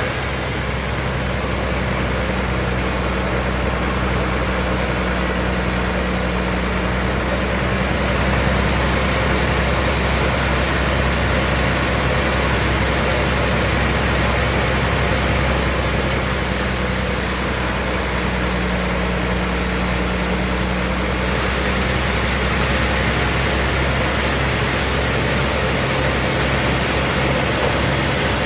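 Bandsaw sawmill machinery running steadily with a constant low hum.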